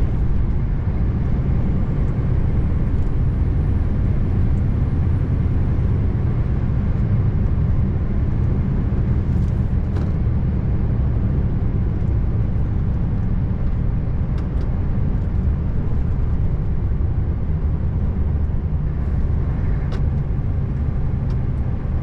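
Scania R590 tractor unit's V8 diesel engine running steadily at cruising speed with road noise: a constant low drone and rumble while driving.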